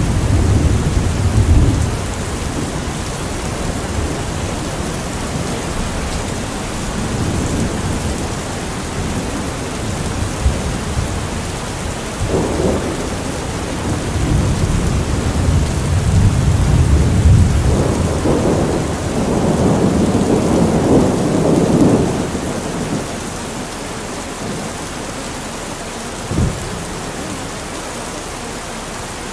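Steady rain with low rolling thunder that swells several times, and one short sharp crack near the end.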